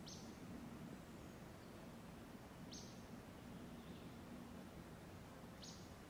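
A bird giving three short, high calls about three seconds apart, faint against a steady low hum.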